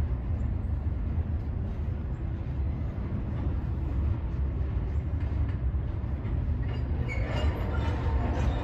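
Freight train of double-stack container cars rolling slowly across a steel girder bridge: a steady low rumble, with higher metallic screeching from the wheels joining in about seven seconds in.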